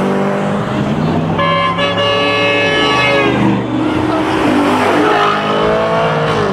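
Modified high-horsepower street cars revving their engines as they pull away, the engine note dropping back about three seconds in. A bright, many-toned note sounds for about two seconds near the middle.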